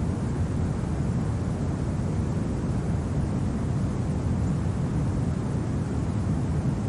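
Steady, low rumbling winter wind with no distinct events.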